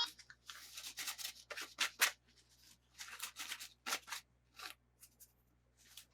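Toy packaging being handled, a quick series of short rustling and scraping strokes that thin out in the last second or so.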